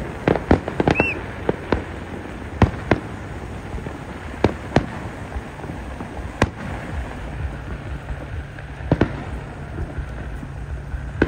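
Fireworks going off: a quick string of bangs and crackles in the first few seconds, then single booms a second or two apart. A short whistle sounds about a second in, and a low steady hum comes in past the middle.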